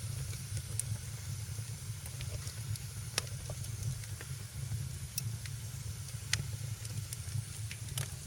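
Wood fire burning in a fireplace: a steady low rumble and hiss of the flames, with sharp crackles and pops every second or so, the strongest about three seconds in and again after six seconds.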